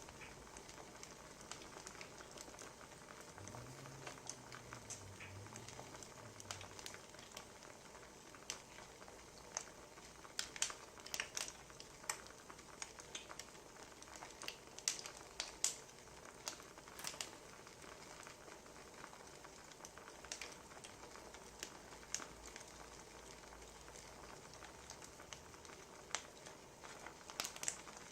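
Wood fire crackling, with irregular sharp pops and snaps that cluster in the middle and again near the end.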